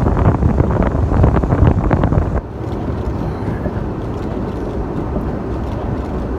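A 1996 Ford Bronco driving through deep snow, heard from inside the cab: a loud, jostling rumble with rattles and knocks, which drops suddenly about two and a half seconds in to a steadier, quieter rumble.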